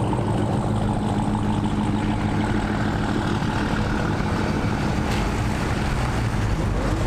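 Car engine running steadily at low revs, a constant low drone.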